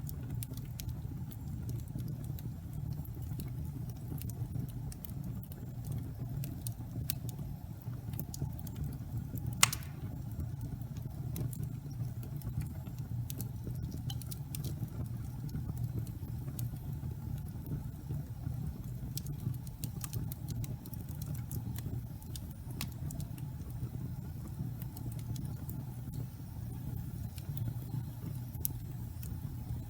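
Wood fire burning in a fireplace: a steady low rumble of flames with scattered small crackles, and one louder pop about ten seconds in.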